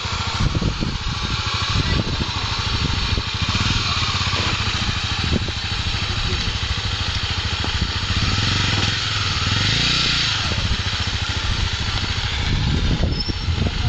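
Honda XR250 Tornado's single-cylinder four-stroke engine running under way, with a steady rushing noise over it.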